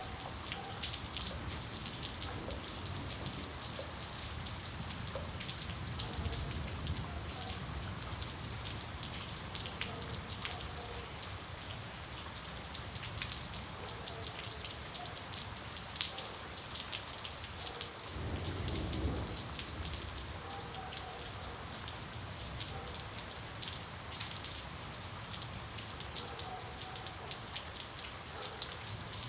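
Steady rain falling, with many separate drops striking close by over an even wash of rain noise and a low rumble underneath. About two-thirds of the way in, the low rumble briefly swells.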